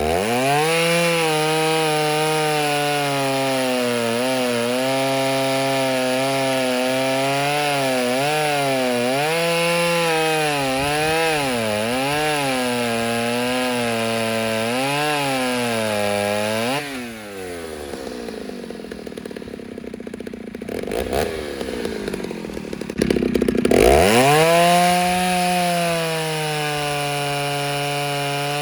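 Ported Stihl 08S two-stroke chainsaw with a stock muffler, cutting wood at full throttle: its revs dip and recover over and over as the chain bites. About 17 s in it drops off to a low idle. At about 23 s it revs sharply back up and holds a steady high speed.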